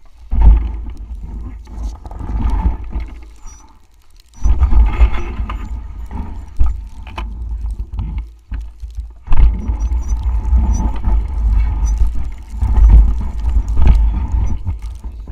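Wind buffeting the microphone in a blizzard: loud, uneven low gusts that drop out briefly about four seconds in and again around eight to nine seconds.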